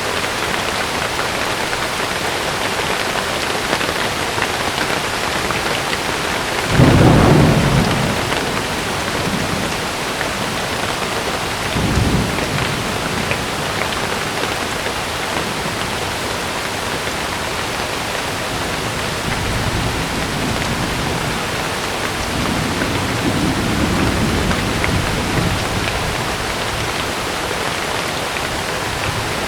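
Heavy rain falling steadily on a tent, with thunder: a loud rumble about seven seconds in, a shorter one a few seconds later, and a softer, longer rumble near the end.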